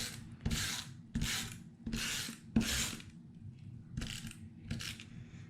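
Adhesive tape runner drawn along the edge of paper in about seven short, scratchy strokes, laying down plenty of adhesive to hold down paper that the paint has made curl.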